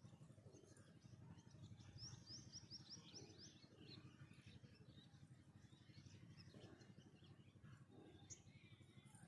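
Faint outdoor quiet with a small bird calling: a quick run of about eight short, high, falling chirps two to three seconds in, then scattered single chirps, over a low steady background rumble.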